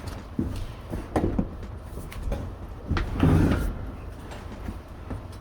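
Truck cab door and lock being worked open: a series of short clunks and knocks, with a longer, louder clatter about three seconds in.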